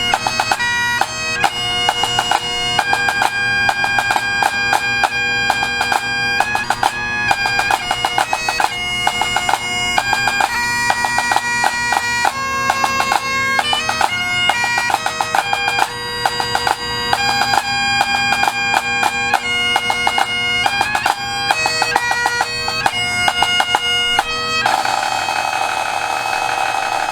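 Bagpipes playing a tune over steady drones, the melody broken up by quick grace notes, settling onto one long held note near the end.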